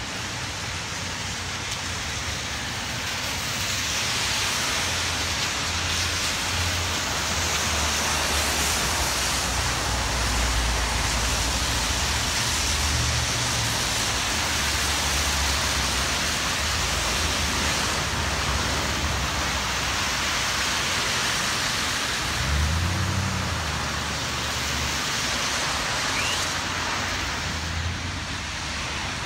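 Steady hiss of rain and car tyres on a flooded street, with cars driving through standing water; one passes a little louder about two-thirds of the way in.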